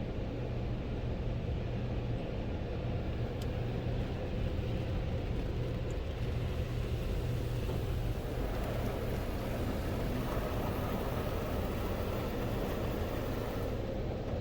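In-bay automatic car wash running: a steady low hum under a broad rushing noise that grows brighter about eight seconds in.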